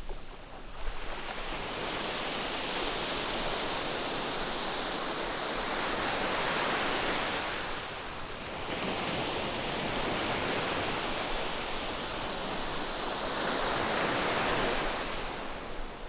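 Ocean surf on a sandy beach: waves break and wash up the shore in two long swells of rushing water, the first easing off about halfway through and the second building near the end.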